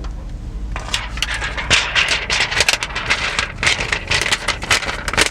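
An old plastic screen protector film being peeled off a car's infotainment touchscreen, with a rapid, irregular crackling as the adhesive lets go, starting about a second in.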